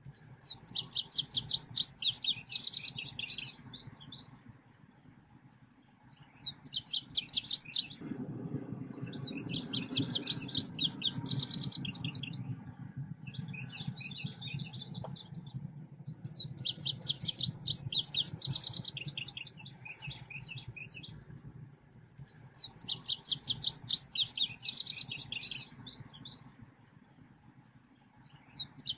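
Song of the bird known in Indonesia as selendang biru, played as a lure call: loud phrases of fast, chattering high notes, each two to three seconds long, repeating every few seconds over a faint low hum.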